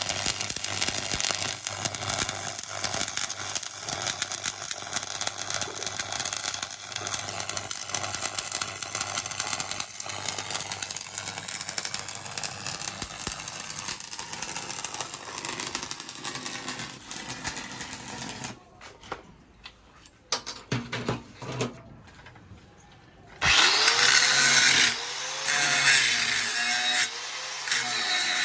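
Stick (shielded metal arc) welding with a 6013 mild-steel electrode: the arc crackles and sizzles steadily through a vertical-uphill root pass, then breaks off about two-thirds of the way through. A few knocks follow, then a power tool, likely an angle grinder, runs in short bursts near the end, its pitch rising and falling.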